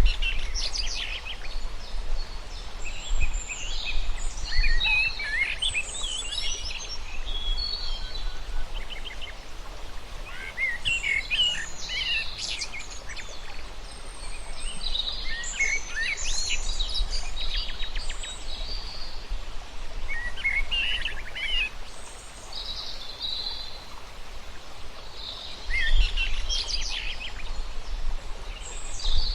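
Several birds calling and chirping in clusters of quick high calls every few seconds, over a low steady outdoor rumble.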